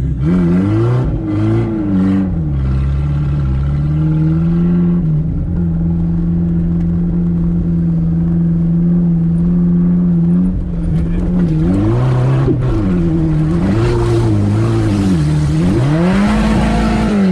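Dacia car engine run hard through the FI exhaust, its revs rising and falling again and again. It holds steady for about five seconds in the middle, then climbs to a high rev near the end.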